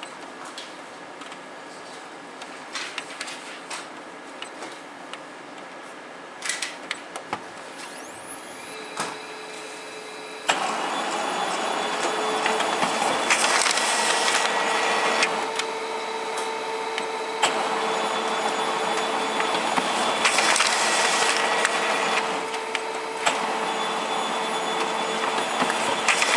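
A few scattered clicks, then about ten seconds in a machine starts up and runs with a steady whine. A louder noisy surge swells roughly every seven seconds: the abnormal noise from a machine fitted with a generic LB319B part.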